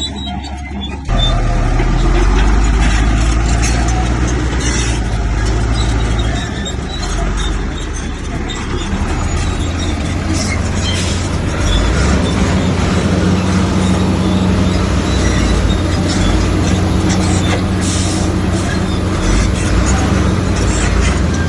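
Heavy diesel earthmoving machinery running steadily under load, with scattered clanks and scraping. The sound gets abruptly louder about a second in.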